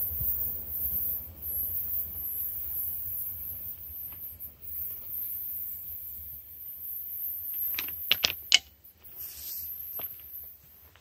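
Low rumble of a train fading away. About eight seconds in come a quick run of sharp clicks and a rattle, then one more click near the end.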